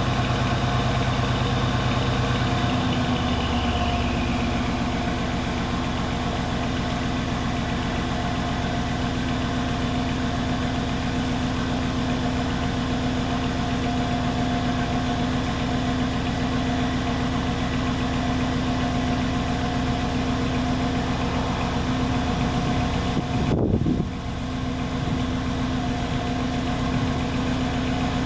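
Mercedes E500's M278 4.7-litre twin-turbo V8 idling after a cold start, through an exhaust with the secondary catalytic converters removed, an X-pipe in place of the centre resonator and the stock mufflers. The fast idle drops to a lower, steady note about three seconds in as the engine warms.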